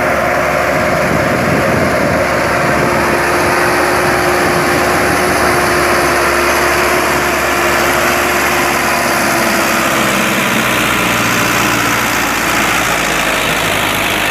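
Tractor diesel engine running steadily with a dense mechanical noise and a steady whine that fades about ten seconds in.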